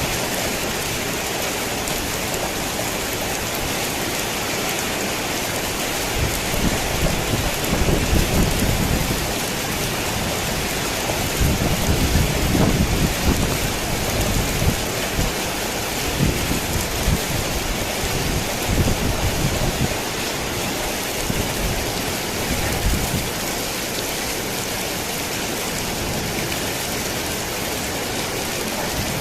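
Steady rain pattering on a tin roof, with a long roll of thunder through the middle that rumbles in several swells and then fades away.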